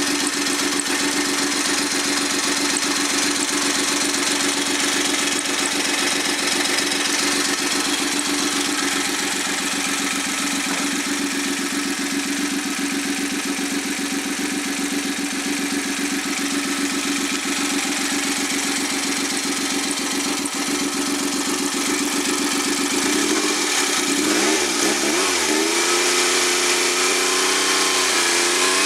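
Suzuki K6A 658 cc three-cylinder engine running warm and steady on a test stand, without its turbocharger fitted. Near the end its speed wavers up and down for a couple of seconds, then holds at a higher, steady speed.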